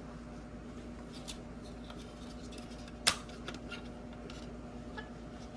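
Small clicks and taps of plastic parts being handled on a car headlight assembly during disassembly, with one sharp click about three seconds in, over a steady low hum.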